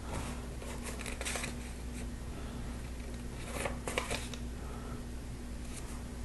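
Lego plastic pieces being handled and pressed together: a few faint light clicks and rustles over a steady low hum.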